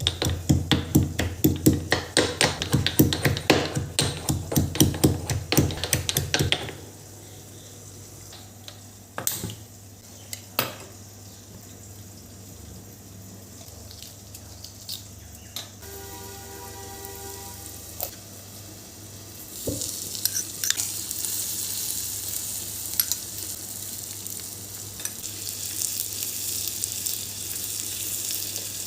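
Rapid knocking, about five strikes a second, for the first several seconds. It gives way to a quieter stretch with a low steady hum, a few clicks and a short pitched tone, and then food sizzling as it fries in a hot pan from about two-thirds of the way in.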